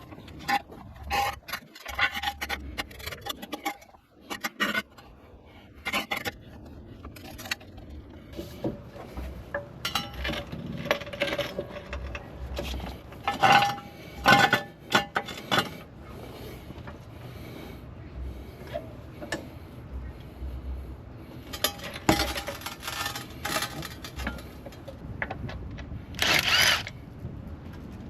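Irregular metallic clinks, knocks and scrapes of tools and parts being handled, louder clusters about halfway through.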